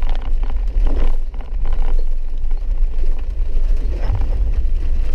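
Steady low rumble of a four-wheel-drive vehicle driving a wet, rough dirt road, heard from inside the cab, with a few brief knocks about a second in and again near four seconds.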